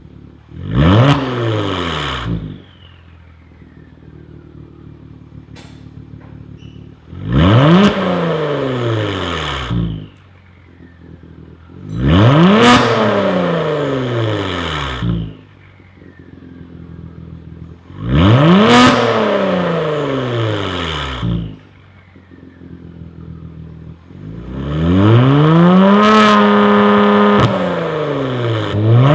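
Genesis G80 Sport's 3.3-litre twin-turbo V6 revving through an aftermarket downpipe, mid-pipe and muffler with a valved exhaust: five blips from idle, each rising and falling back, the last one held high for a couple of seconds before dropping, with a steady idle between them.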